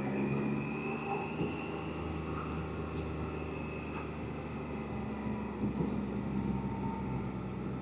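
Can-Am Spyder three-wheeler running steadily at a cruise along the road, a low even engine note with a faint high whine above it.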